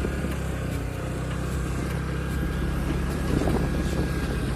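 Motor scooter engine running steadily while riding.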